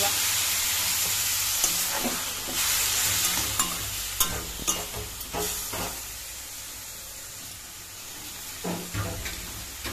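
Onions, tomatoes and spices sizzling in a metal kadai as a little water is poured in, the loud hiss dying away over several seconds. A spatula stirs and scrapes the pan with scattered clicks.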